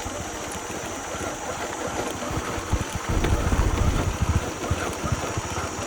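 Small motorbike engine running at low speed during a ride, its low rumble growing louder for a second or so about three seconds in.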